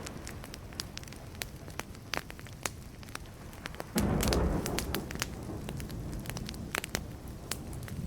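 Burning wood fire crackling, with frequent sharp pops and snaps over a low hiss. About four seconds in, a sudden louder low rush swells and fades within a second.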